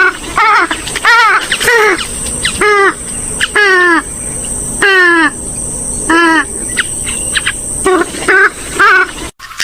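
Repeated loud, nasal calls of a swamphen-type rail: about a dozen notes in quick series, many sliding downward in pitch, with two short pauses. A faint steady high-pitched tone runs underneath.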